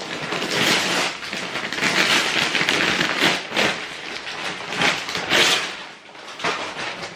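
Gift packaging rustling and crinkling as it is handled, in irregular bursts with several louder crackles.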